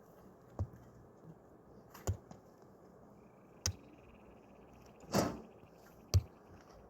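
Five sharp knocks, roughly a second or so apart, over a steady low hiss; a faint, high, rapid trill runs through the middle.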